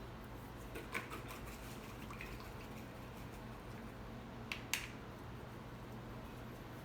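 Faint handling sounds of painting: a paintbrush giving a few light taps and clicks about a second in and a sharper pair of taps near five seconds, over a low steady hum.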